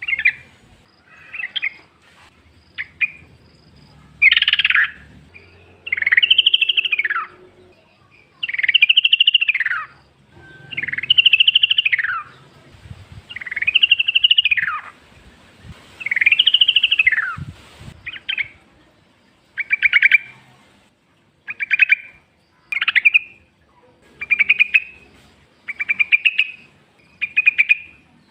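Yellow-vented bulbul (trucukan) singing: loud, rattling phrases that rise and then fall in pitch, one every couple of seconds, turning shorter and quicker in the second half.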